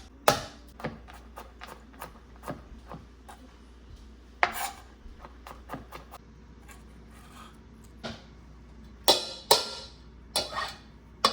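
Kitchenware being handled during cooking prep: irregular knocks and clinks of dishes and utensils, with a louder pair of clatters about nine seconds in.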